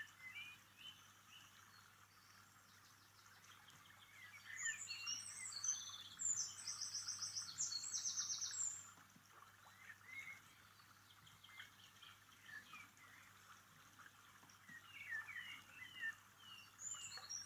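Woodland songbirds singing: scattered soft chirps, with a louder song of fast, high trills from about four to nine seconds in.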